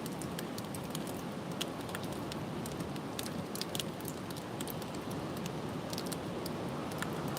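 Strong wind blowing steadily, with rustling and many small, sharp ticks scattered through it.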